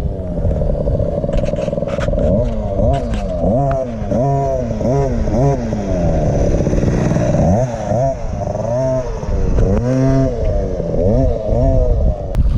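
KTM 50 SX's small two-stroke single-cylinder engine revving up and dropping back again and again, the pitch rising and falling many times as the throttle is opened and shut. The uneven on-off throttle is a beginner learning to work it.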